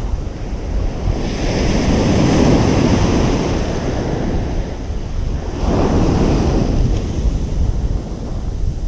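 Ocean surf breaking and washing up a beach: one wave swells in about a second in and a second, shorter one follows near six seconds. Under it runs a steady low rumble of wind on the microphone.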